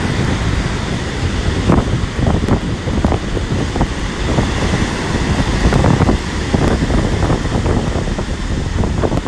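Strong gusting wind buffeting the microphone over the noise of storm waves on the sea.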